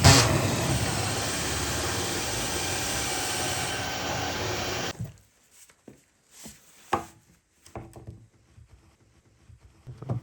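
A power tool runs steadily for about five seconds, louder at the very start, then cuts off abruptly. Several light wooden knocks and clunks follow.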